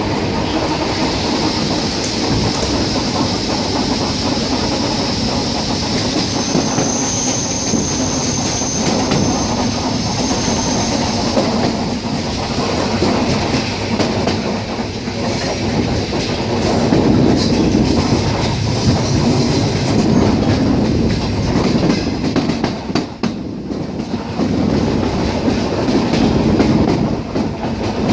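ER9T electric train running at speed, its wheels clattering over the rail joints with a steady rumble. About seven seconds in, a thin high whine sounds for roughly four seconds.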